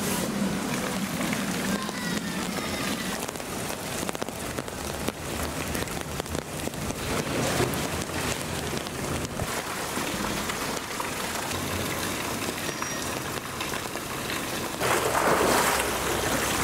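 Steady rain falling, a dense patter of drops. Near the end comes a louder burst of splashing water as a polar bear hauls itself out of its pool onto a platform.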